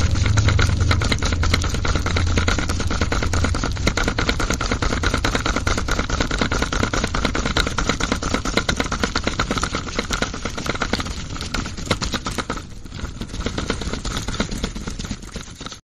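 Small electric motor spinning the drum of a miniature model concrete mixer loaded with wet concrete, with a fast continuous rattle. It cuts off suddenly at the end.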